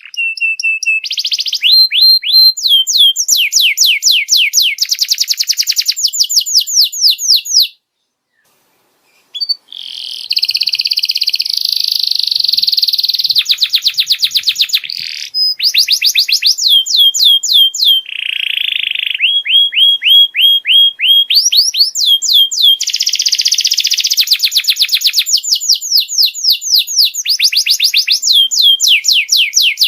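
Domestic canary song: fast trills of quickly repeated, falling notes, switching from one rolling phrase to the next. The song cuts out for about a second and a half about eight seconds in, then resumes.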